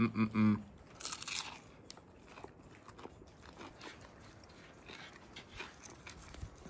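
A short hum from the eater's voice, then a crisp crunch as he bites into a deep-fried fish egg roll about a second in, followed by chewing with small crunches of the fried wrapper.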